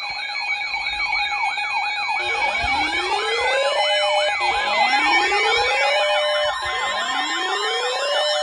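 Several electronic sirens sounding at once, layered together. Fast yelps and slow rising wails, each wail repeating about every two seconds, run over steady and alternating high tones.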